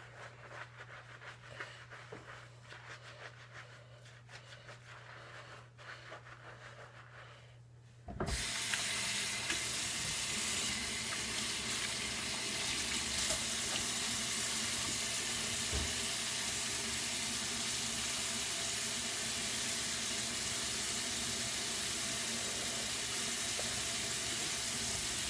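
Faint rustling at first, then about eight seconds in a water tap is turned on and runs steadily into a sink, stopping near the end.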